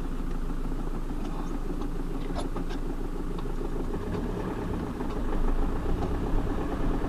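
Off-road vehicle's engine running steadily, getting louder and rougher about five seconds in, with a few light rattles.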